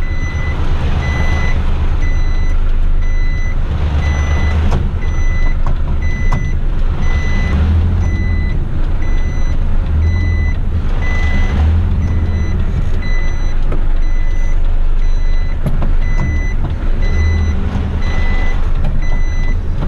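Truck reversing alarm beeping at a steady rhythm over the low rumble of the heavy rigid truck's diesel engine as it backs up.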